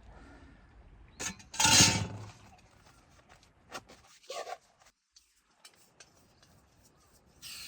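Objects being handled: a few clicks and clinks, with one loud clattering noise about two seconds in and a couple of smaller knocks after it.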